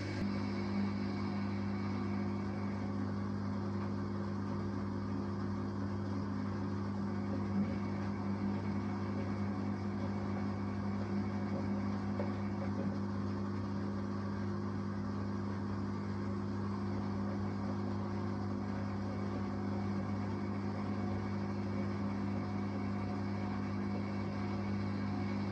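Samsung Eco Bubble 6.5 kg washing machine running with a steady, even hum.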